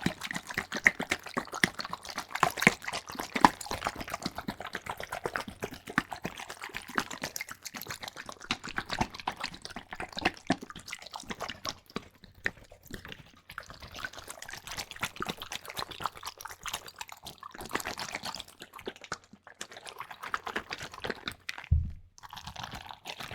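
Liquid worked close to the microphone for ASMR: dense, rapid wet clicks and crackles, with short pauses about halfway through and near the end.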